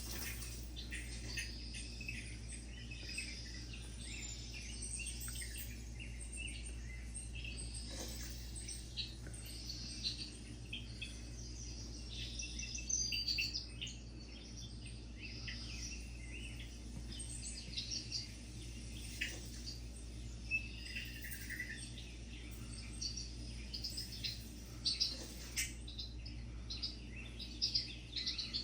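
Many small birds chirping and calling in quick, overlapping short notes, over a steady low hum.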